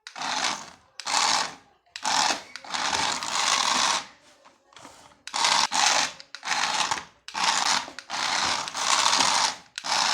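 Small electric motor of a remote-control toy whirring in short stop-start bursts, about ten in all, each half a second to a second and a half long.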